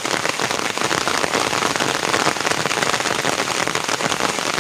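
Steady rain falling hard, a dense patter of drops striking a surface.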